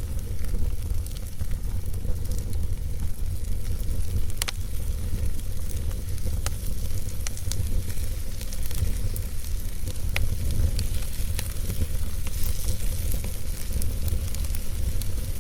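Wood fire burning in a fireplace: a steady low rumble and hiss, with scattered sharp crackles and pops, the strongest about four and a half seconds in and another about ten seconds in.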